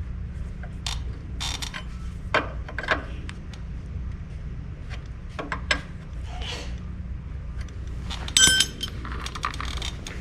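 Hand tools clicking and clinking against metal fittings while a nut on a grease hose fitting is tightened, with one louder clank that rings a little past eight seconds in. A steady low hum runs underneath.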